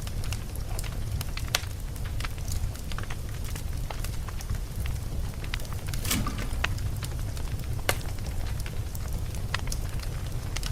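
Wood campfire crackling, with frequent sharp pops and snaps over a steady low rumble. A brief cluster of louder crackles comes about six seconds in.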